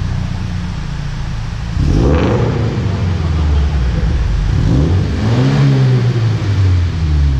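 An engine running with a steady low rumble, revving up sharply about two seconds in and again about five seconds in.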